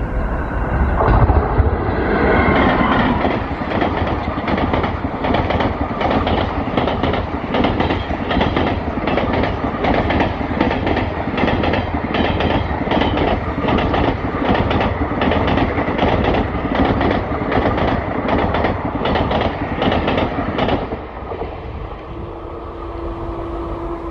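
High-speed passenger train passing close by at speed: a loud rush of wheel and rail noise with a steady clickety-clack of wheels over rail joints, about two clicks a second. The noise falls away suddenly near the end as the last coach passes, and a single steady tone starts shortly after.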